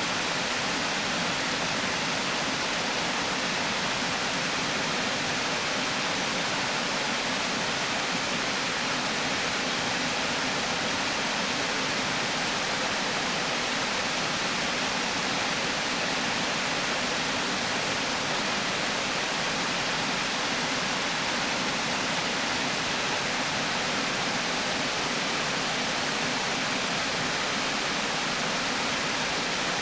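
Water pouring over a river weir: a steady, even rushing with no breaks or changes.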